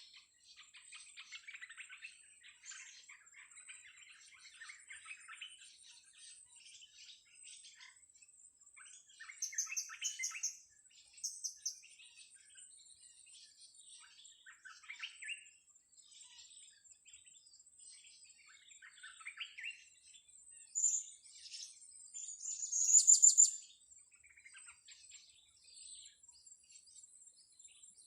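Blue-crowned hanging parrots (serindit) calling with many short, high-pitched chirps and squeaks, in irregular flurries, with a few louder bursts. A faint steady high whine runs underneath.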